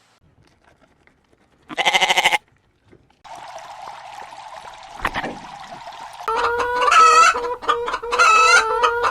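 Chickens calling: a short, loud burst of calls about two seconds in. Then a steady drone, followed by a loud run of clucking and crowing over the last three seconds.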